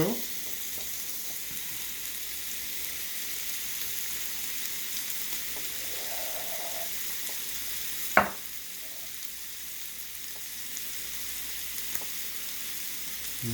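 Chicken skewers in a sugary soy marinade sizzling on an oiled griddle, a steady frying hiss. A single sharp knock sounds about eight seconds in.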